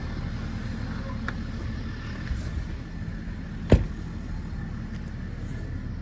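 Car engine running with a steady low rumble, and one sharp thump about three and a half seconds in.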